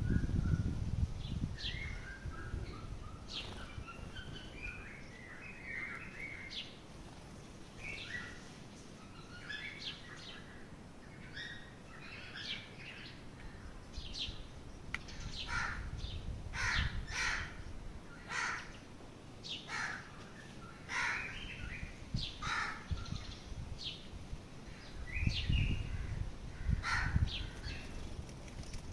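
Birds calling and chirping: many short calls one after another, more frequent in the second half.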